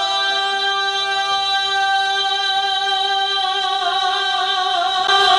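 Devotional naat sung a cappella: one voice holds a single long, steady note, and its pitch starts to move only near the end.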